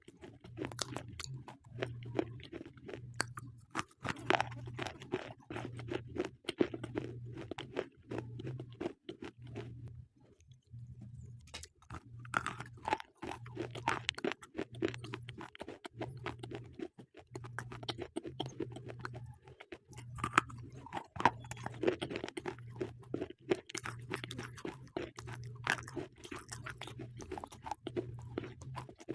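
Slate pencils being bitten and chewed close to the microphone: dense, rapid crunching that stops briefly about ten seconds in, then resumes.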